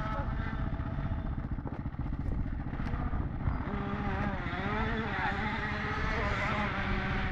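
Enduro dirt bike engine running with a rapid, even firing beat while the bike lies in the mud.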